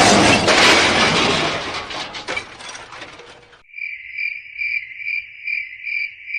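A loud rushing noise dies away over the first three seconds or so, then a cricket chirps steadily, about two chirps a second.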